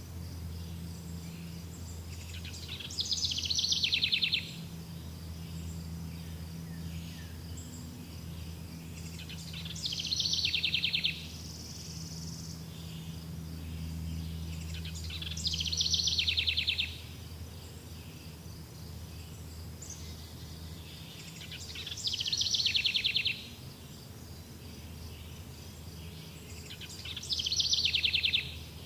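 A bird singing the same rapid, trilled phrase five times, about every six seconds; each phrase lasts about a second and a half and falls in pitch. Under it run a steady high insect chirring and a low hum.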